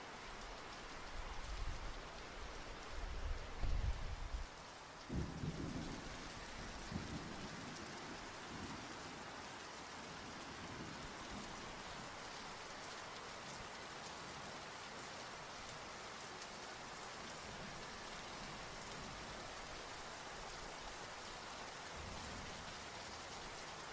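Steady rain with rolling thunder: deep rumbles over the first few seconds, fading out by about seven seconds in, leaving the even rain.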